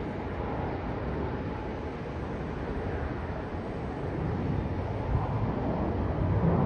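Jet airliner engine rumble from a plane near the airport, a steady roar that gradually grows louder toward the end.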